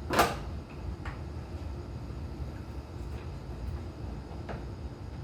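A wrench clanks once against metal fuel line fittings about a quarter second in, followed by a few faint ticks of the tool, over a steady low rumble.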